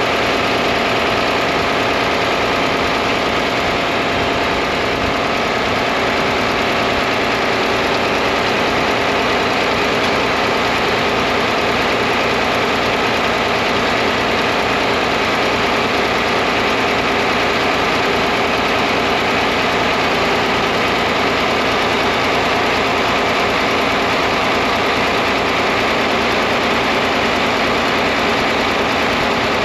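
John Deere 4010 tractor engine running steadily, a fast even firing pulse under a dense mechanical clatter.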